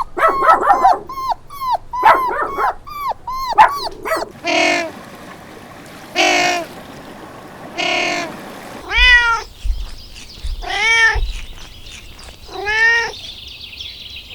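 A run of animal calls: a quick series of short falling calls for the first four seconds, then three separate short cries a second and a half apart, then four longer cries that rise and fall in pitch.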